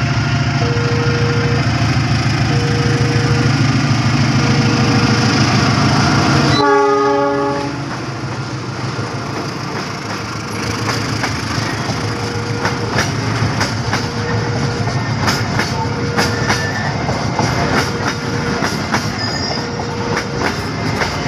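Diesel locomotive passing close by at speed with its engine running loudly, then a short horn blast about seven seconds in. A freight train of flat wagons follows, its wheels clicking steadily over the rail joints.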